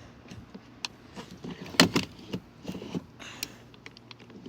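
Scattered clicks and knocks of hands working the boat's controls, the loudest about two seconds in, over a faint steady hum.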